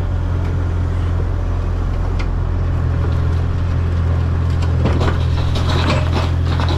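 An engine running steadily at idle with a deep, even hum, and some light clattering and scraping about five seconds in.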